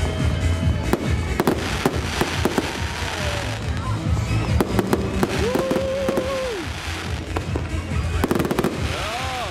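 Fireworks display: shells launching and bursting in quick succession, with many sharp bangs and crackles.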